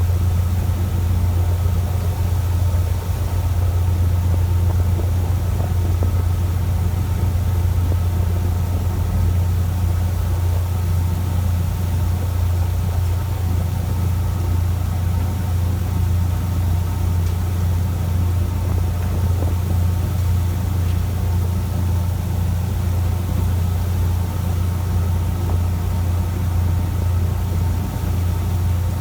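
Fishing boat's engine running steadily: a constant low drone with a steady hum on top.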